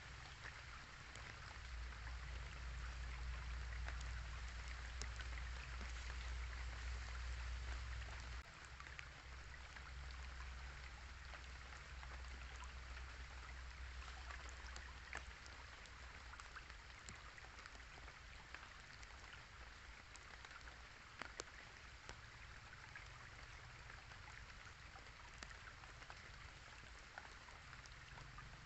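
Light rain pattering steadily, with many scattered drops ticking close by, over a small river flowing. A low rumble sits under it for the first few seconds and drops away sharply about eight seconds in.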